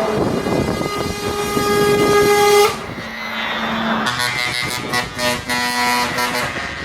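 Truck air horn blowing one long steady blast that cuts off suddenly about three seconds in, followed by further horn tones over truck engine noise.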